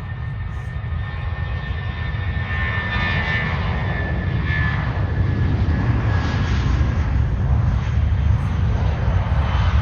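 Airbus A320-232's IAE V2500 turbofan engines at takeoff thrust, a deep rumble growing steadily louder, with a high steady whine that fades about halfway through.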